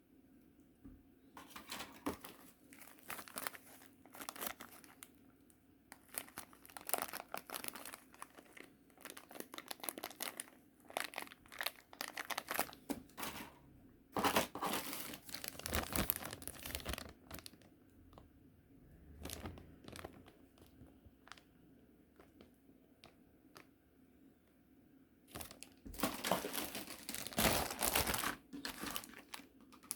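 Plastic packaging of a model kit's parts crinkling and rustling as it is handled, in irregular bursts, with a lull of several seconds before it starts again near the end.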